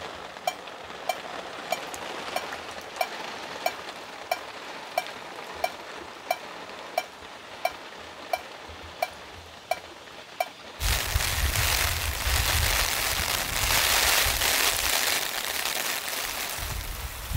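Water dripping steadily, a short pitched plink about every two-thirds of a second. About eleven seconds in, loud heavy rain cuts in suddenly with a low rumble and drowns it out.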